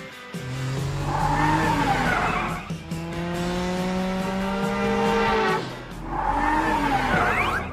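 Cartoon car sound effects: tyre squeals about a second in and again near the end, with a steady pitched engine-like tone between them, over background music.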